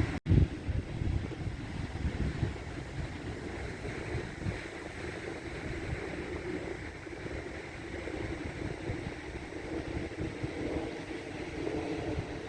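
Wind buffeting the microphone over the hiss of surf on a beach. The sound drops out for an instant just after the start.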